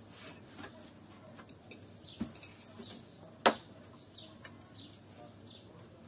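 Small birds chirping in short, scattered calls, with a sharp click about two seconds in and a louder one about three and a half seconds in.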